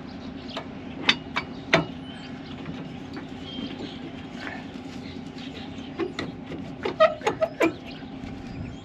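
Sharp metallic clanks and clicks of tools and parts being handled during brake work, three about a second in and a quick run of five or six near the end, over a steady low hum.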